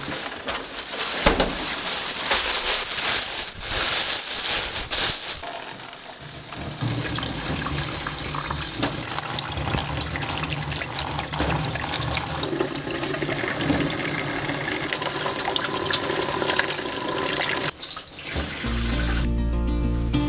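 Water running from a kitchen tap into a sink and splashing, loudest in the first six seconds, with soft background music.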